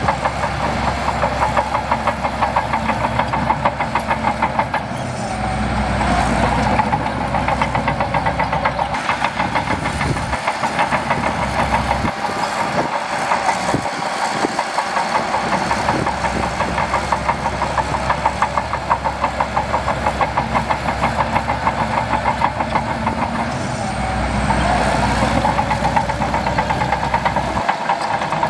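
Shantui DH17C2 crawler bulldozer's diesel engine running steadily with a fast, even pulsing. It gets a little louder and heavier about five seconds in and again near the end.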